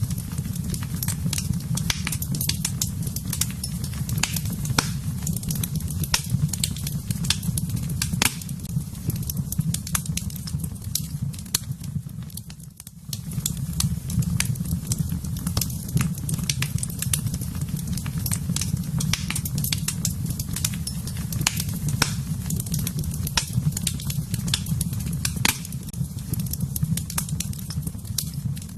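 Wood fire burning in a fireplace: irregular sharp crackles and pops over a steady low rumble of flames. The sound dips briefly a little before halfway.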